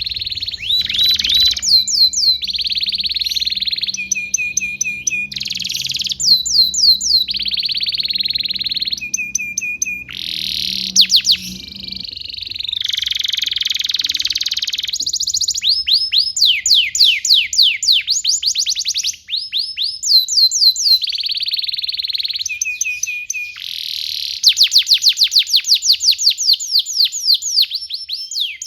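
Domestic canary singing a long continuous song. Fast runs of repeated falling notes alternate with dense rolling trills and short steady trills, phrase after phrase without a break.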